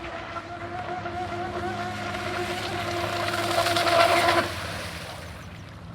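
RC boat's brushless electric motor whining at full throttle with a slightly wavering pitch, growing louder, then cutting out suddenly about four and a half seconds in. The power cut is taken by the owner to be the speed controller (ESC) overheating.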